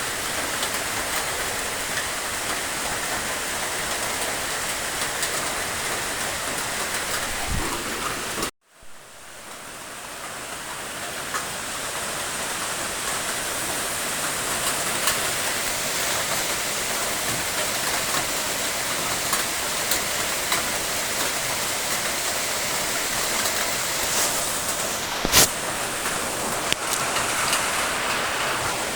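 Steady rain: an even hiss of falling drops. About nine seconds in it cuts out abruptly to silence and fades back up over a few seconds, and a single sharp tap stands out near the end.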